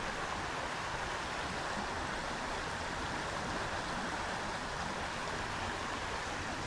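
Small creek running steadily, water babbling over a break in the streambed.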